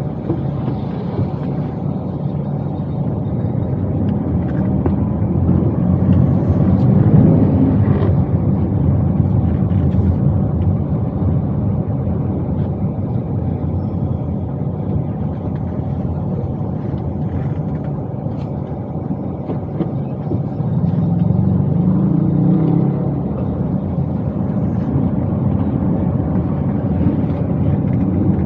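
Toyota Wigo being driven, heard from inside the cabin: a steady low engine and road rumble that swells louder twice, about a quarter of the way in and again about three quarters through.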